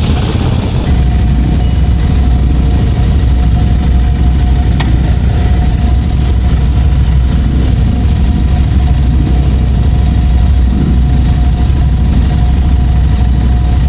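An engine idling steadily, with one sharp click about five seconds in.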